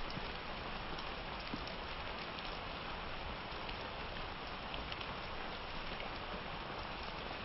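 Steady summer rain falling, an even hiss with scattered individual drops ticking on a surface.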